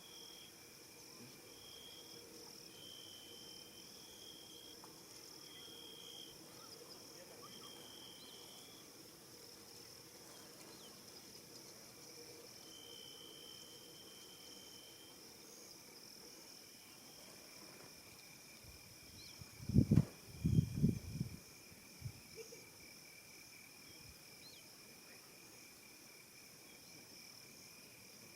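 Crickets and other insects trilling steadily in the evening bush, with short repeated buzzing calls over roughly the first half. About twenty seconds in comes a brief cluster of loud low thumps, the loudest sound here.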